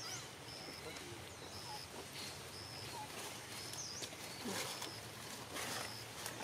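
Outdoor birdsong: a short, high, flat note repeated about once a second, with a few quick up-and-down chirps and some brief rustling midway through.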